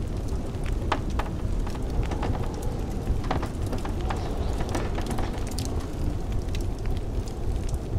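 Wood fire crackling and popping in a fireplace, with irregular sharp snaps, over a steady low rumble of blizzard wind.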